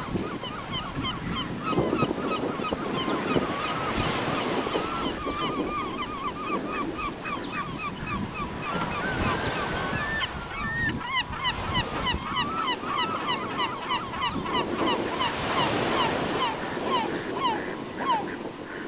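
Birds calling in rapid runs of short, repeated chirps, with wind noise on the microphone. A faint steady high tone joins about eleven seconds in.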